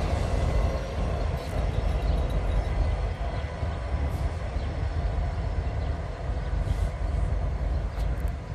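Norfolk Southern freight train rolling past: a steady low rumble of wheels on rail, with faint scattered ticks.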